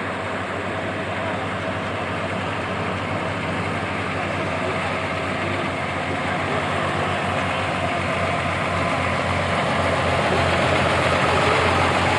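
Truck engine running steadily, growing a little louder over the last few seconds.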